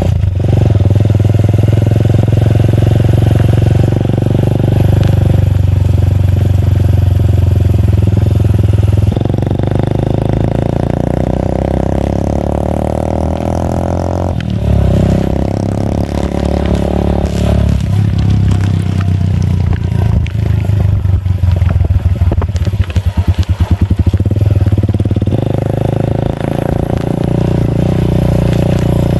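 Motorcycle engine running loud through an aftermarket Akrapovic exhaust with its dB killer removed. The engine note changes pitch several times as the revs rise and fall, and turns choppy and pulsing for a few seconds about two-thirds of the way through.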